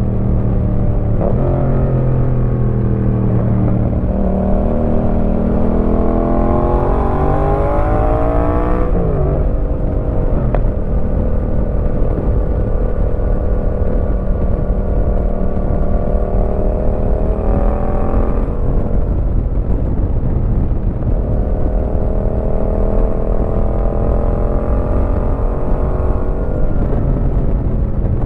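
Yamaha MT-07's parallel-twin engine through a Roadsitalia aftermarket exhaust under way. Its revs climb through the gears with stepped shifts, then drop sharply about nine seconds in. It cruises at a steady pitch, eases off, and pulls up in revs again near the end.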